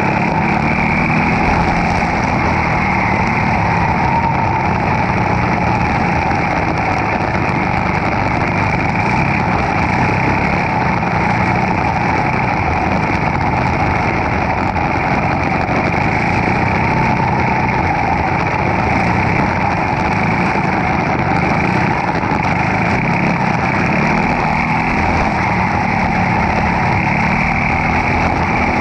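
Briggs & Stratton Animal single-cylinder kart engine running hard, its revs rising and falling again and again as it accelerates and lifts.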